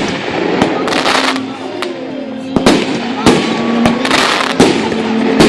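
Fireworks going off: sharp bangs about every second or so, with bursts of crackling between them, over background music.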